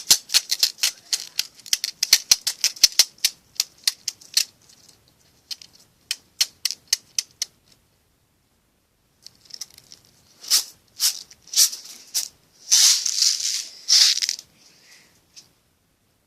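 Pin art toy's pins clicking and rattling as they are pushed and shaken: a quick run of clicks for the first four seconds or so, a few scattered clicks, then several seconds of dense clattering near the end.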